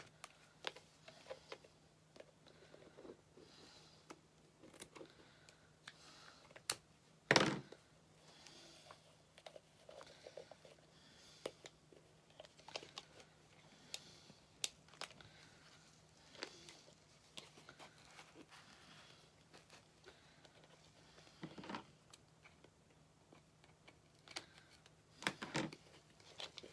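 Scattered small clicks, taps and rustles of hands handling craft materials, with one sharper knock about seven seconds in, over a faint steady hum.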